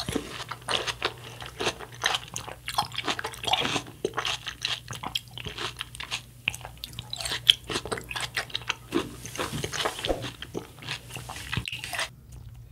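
A person chewing a mouthful of watermelon fruit punch close to the microphone: many quick, irregular crunches.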